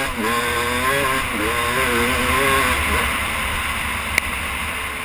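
Yamaha YZ250 two-stroke single-cylinder dirt bike engine pulling on light throttle, its pitch rising and dipping as it is ridden. After about three seconds the engine note drops away under a rush of wind noise, with one sharp click near the end.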